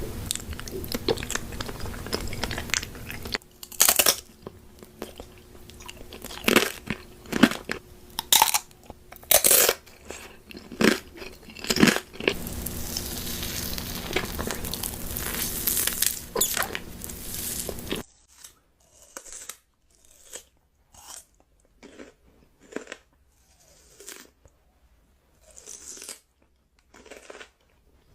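Close-miked eating: crunchy bites and chewing, with sharp crunches over a steady background hum. About two-thirds of the way through the background drops away suddenly, and quieter chewing follows at about one chew a second.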